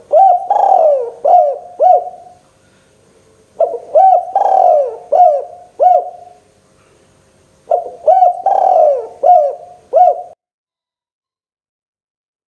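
Spotted dove (tekukur) cooing. There are three song phrases about four seconds apart, each a run of four or five short arching coos, and the last one ends a couple of seconds before the close.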